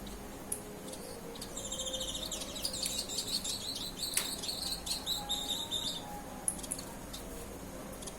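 Small songbirds chirping, with a dense run of rapid, high chirps from about a second and a half in to about six seconds, and scattered single chirps around it.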